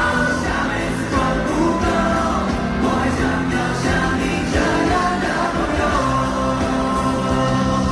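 Live pop-rock band music with a sung melody, loud and continuous, with held sung notes over a steady bass and drum backing.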